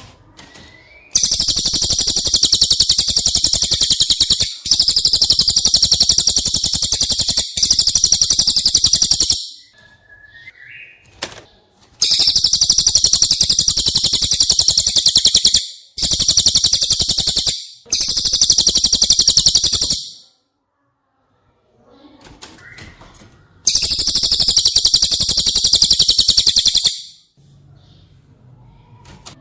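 Recorded cililin song: seven long, loud, very rapid high-pitched trilling phrases, each lasting about one and a half to four seconds, with short pauses between them.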